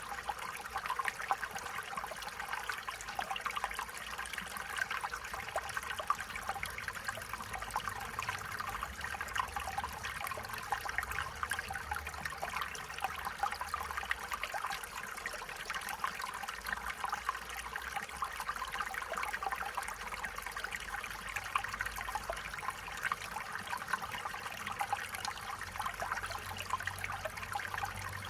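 Stream water trickling and splashing over stones, a steady babbling flow.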